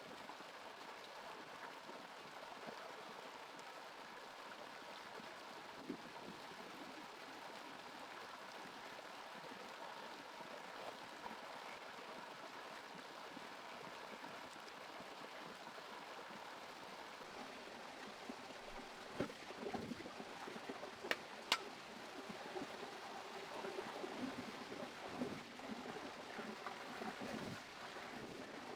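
Steady trickling and gurgling of flowing water, with a few sharp clicks and knocks from about two-thirds of the way through.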